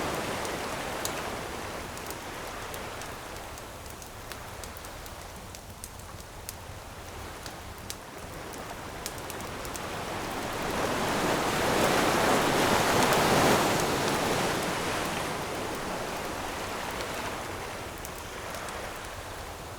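Ocean waves washing onto a beach, one wave building to a peak about twelve seconds in and then draining away, with the sharp little pops and crackles of a wood campfire burning throughout.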